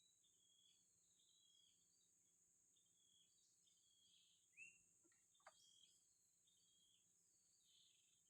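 Faint outdoor ambience: short bird chirps repeating about once or twice a second over a steady high hiss. Two brief, slightly louder falling sounds come just past the middle.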